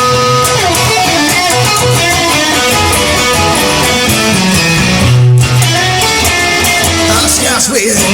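Guitar-led band music with bass guitar, an instrumental stretch of the song with no singing; a heavy bass note swells about five seconds in and a sliding, bending guitar line comes near the end.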